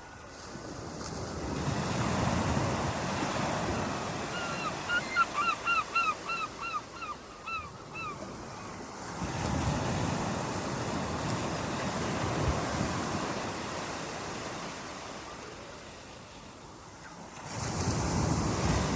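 Waves washing ashore, the surf swelling and fading about every seven or eight seconds. A bird calls about ten times in a quick series a few seconds in.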